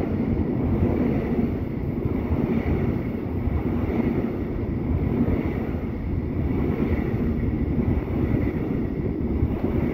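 A train running past: a steady rumble of wheels on rails, with a faint high whine above it.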